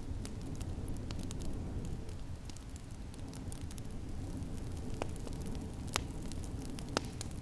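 Wood fire in a fireplace crackling, with scattered small snaps and three sharper pops in the second half, over a steady low rumble.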